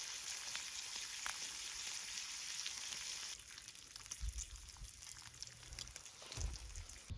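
Food sizzling in a frying pan over a campfire, a dense hiss with small pops. About three seconds in the sizzle drops away suddenly and low rumbles follow.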